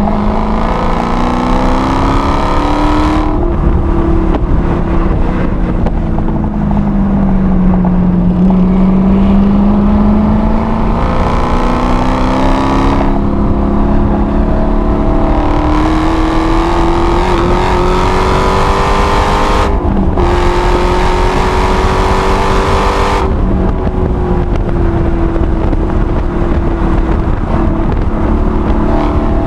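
Supercharged 6.2-litre Hemi V8 of a six-speed manual Dodge Challenger Hellcat heard from inside the cabin on track. The engine note climbs hard under full throttle for about three seconds, then drops away and sinks in pitch as the car slows. It climbs again in a long pull, breaks briefly for an upshift about two-thirds of the way through, climbs once more, and eases off near the end.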